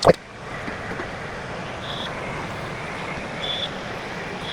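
Roomba robot vacuum running with a steady whir as it cleans, with a few brief high chirps about a second and a half apart. A short loud noise comes right at the start.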